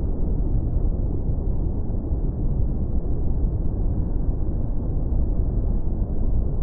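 Beach ambience: a steady, low, muffled rumble of surf, with no distinct wave breaks standing out.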